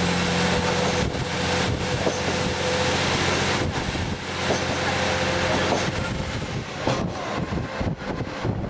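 Diesel trolley train running along the line, heard from onboard: a steady engine hum over wheel and rail noise and wind. About six seconds in, the engine hum drops away and the rougher rumble of the wheels and wind takes over.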